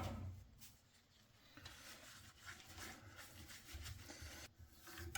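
Near silence: faint rustling and a few light ticks, after a louder sound dies away in the first second.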